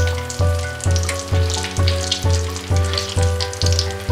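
Whole eggplants and potato pieces sizzling and crackling as they shallow-fry in hot oil in a kadhai and are turned over. Background music with a steady bass beat about twice a second plays over it and is the louder sound.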